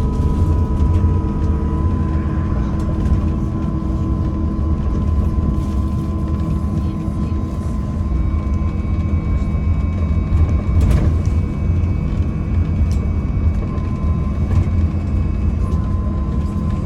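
MAZ-203T trolleybus under way: a steady electric traction-drive whine over low road rumble, with scattered knocks and rattles. A second, higher whine joins about halfway through.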